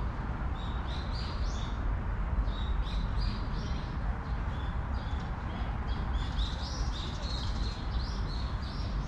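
A songbird singing short phrases of high chirps, repeated about every second or two, over a steady low rumble.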